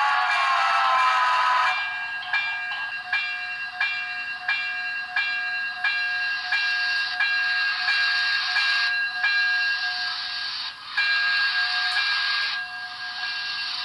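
Sound system of a Broadway Limited HO-scale 2-8-0 steam locomotive model with Paragon 3 sound: a steam whistle trailing off with a falling pitch in the first two seconds, then the locomotive bell ringing about twice a second over a steady hiss.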